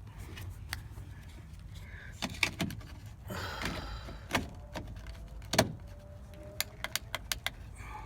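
Scattered sharp clicks and knocks from handling things in the truck bed, over a low steady rumble, with a brief rustle in the middle and a quick run of clicks near the end.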